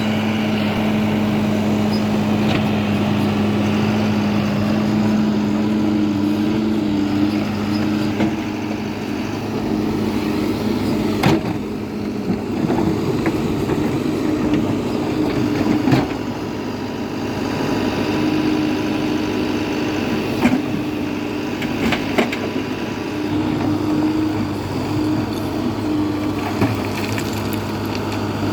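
Diesel engine of a Case backhoe loader running steadily at work, its higher note rising and dropping back now and then, with a few scattered sharp knocks and clanks.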